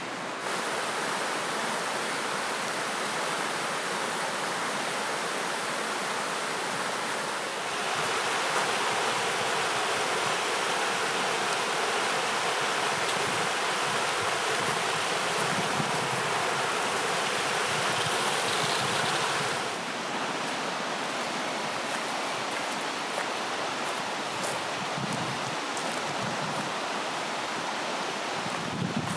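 Steady rush of a flowing river or stream. It gets louder about 8 seconds in and drops back about 20 seconds in.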